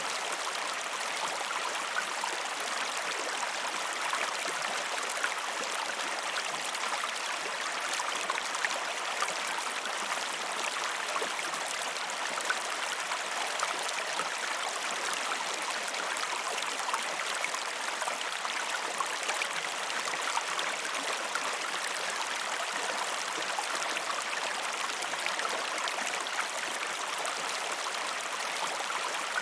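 River water running steadily, a constant rush with fine splashing and little deep rumble.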